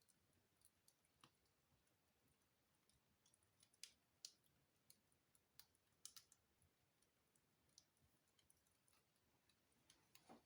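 Wood fire in a fireplace crackling faintly, with small irregular pops and ticks.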